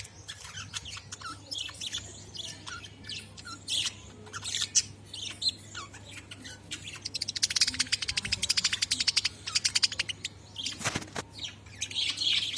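Budgerigars chirping and chattering, with a dense run of rapid, fast-pulsed chatter from about seven to ten seconds in.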